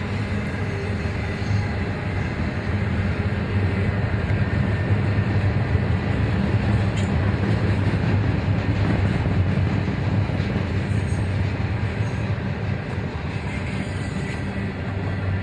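A train running by, a steady rumble with a low drone that swells slightly in the middle.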